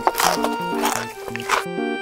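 Cartoon chewing sound effect: three noisy crunching chews, roughly two-thirds of a second apart, over a bouncy background music tune. The chewing stops shortly before the end, leaving only the music.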